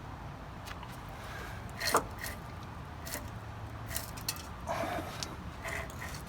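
Scattered light clicks and scrapes, with a louder knock about two seconds in, from hands-on work at an old air-cooled VW Type 2 engine while it is turned over by hand.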